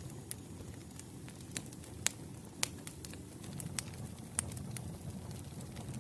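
Wood campfire burning with a low rumble and irregular sharp crackles and pops, a few louder snaps about two, two and a half, and four and a half seconds in.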